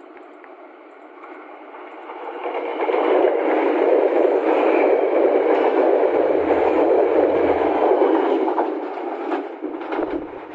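KAIS 4 inspection train running straight through the station close by, its wheels on the rails making a steady rushing rattle. The noise swells about two seconds in, stays loud for several seconds, then fades near the end.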